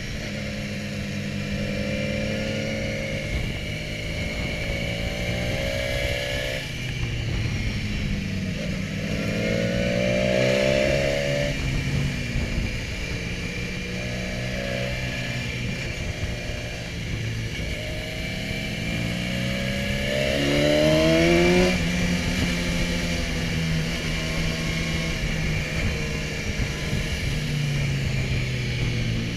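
BMW S1000XR's inline-four engine running under way, its pitch climbing under acceleration and dropping again several times, most strongly about a third of the way in and again near two-thirds, heard from the rider's seat.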